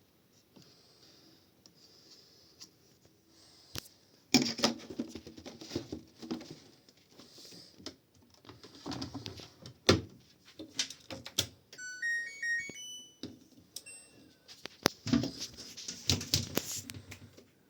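Knocks and clatter of handling, with a short electronic beep tune of a few rising and falling notes about twelve seconds in, from a washing machine's control panel.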